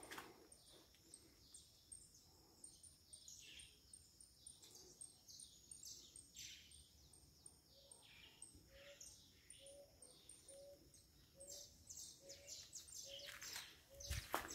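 Faint birdsong: many short falling chirps and a high, rapidly repeated note, joined about halfway by a lower note repeated about once a second. Near the end comes a burst of footsteps scuffing on dirt.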